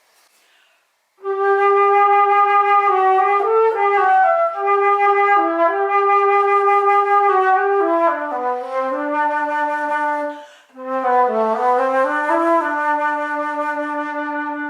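Alto flute in G played solo: a slow melody in two phrases, with a short breath between them about ten seconds in. The second phrase dips lower and ends on a long held note.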